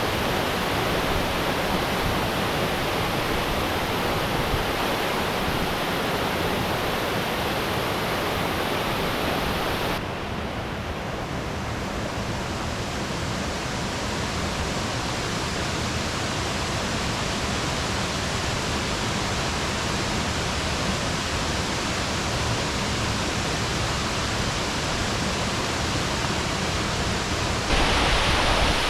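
Rushing water of a waterfall and stream rapids, a steady even rush. About ten seconds in it shifts abruptly, a little quieter and duller, and near the end it turns louder and brighter.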